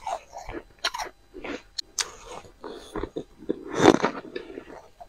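Bites into freezer frost, crunching: several sharp crunches, the loudest about four seconds in.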